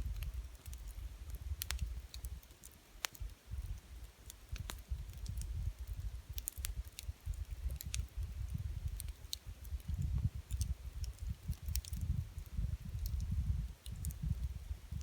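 Campfire crackling, with sharp irregular pops and snaps over a low, uneven rumble.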